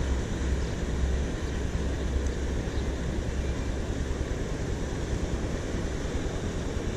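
Steady rush of water pouring over a small spillway, with a heavy low rumble underneath.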